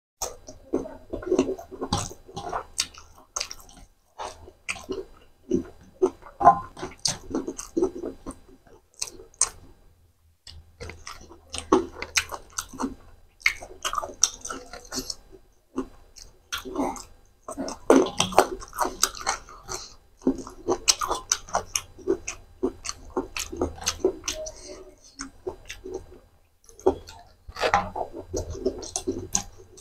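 Close-miked chewing and crunching of spicy macaroni and raw vegetables (green pepper, carrot), with wet mouth clicks. It comes in runs with a few short pauses.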